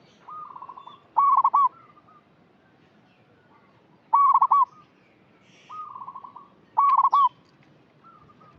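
Zebra dove (perkutut) cooing: three loud, short rolling coo phrases, each about half a second long, with softer trilled coos between them.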